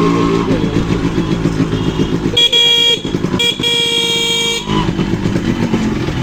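Yamaha RX100 single-cylinder two-stroke engine running with a rapid, buzzing exhaust pulse as the motorcycle is ridden. Midway a vehicle horn sounds twice, a short toot and then a longer blast of about a second.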